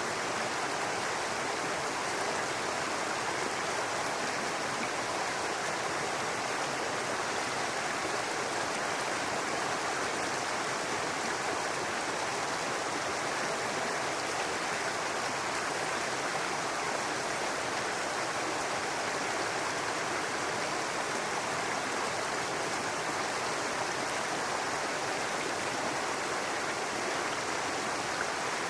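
Small brook babbling steadily over rocks, a continuous even rush of running water.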